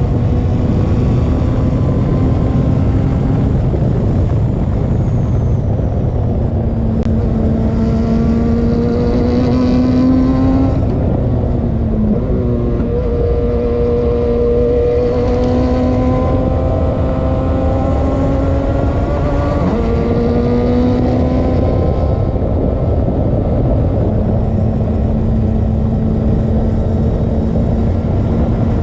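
Radical race car engine running hard at speed, heard from on board over a heavy rumble of wind and road noise. The engine note holds and climbs slowly, then drops sharply twice, about twelve and twenty seconds in.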